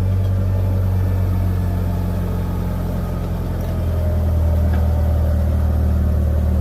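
A vehicle engine running steadily at low revs while backing up, its hum growing a little louder about two thirds of the way through.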